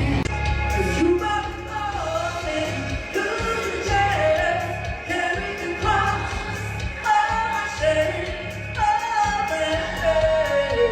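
A singer performing a pop song live over bass and drums, with each sung phrase sliding down in pitch at its end.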